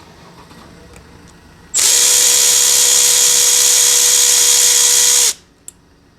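Handheld electric power tool, such as a cordless driver, running at a steady speed for about three and a half seconds with a high whine, starting and stopping abruptly, followed by a small click.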